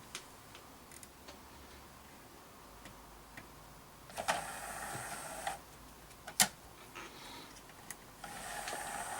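Blu-ray disc drive mechanism clicking and whirring in two short bursts, with a loud click between them, as it tries to read the disc.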